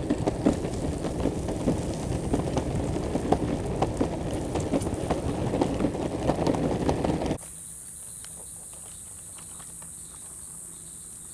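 Skateboard wheels rolling on pavement: a rough, steady rumble with frequent clicks as the wheels cross joints and cracks. About seven seconds in, this cuts abruptly to a quieter, steady high-pitched insect chorus.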